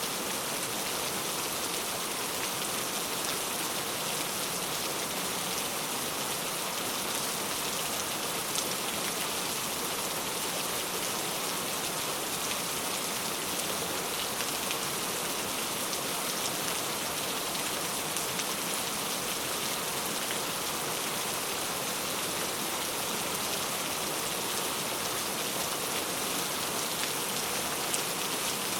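Steady rain falling, an even hiss with occasional individual drops ticking on a surface.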